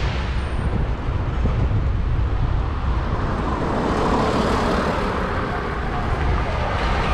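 City street traffic heard from a moving bicycle, with a steady low rumble of wind on the microphone; a passing vehicle swells and fades about halfway through.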